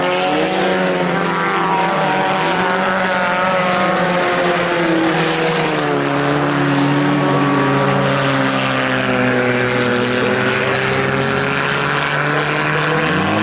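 Several IMCA Sport Compact race cars' four-cylinder engines running under racing throttle, their pitch slowly rising and falling as the cars go around the track.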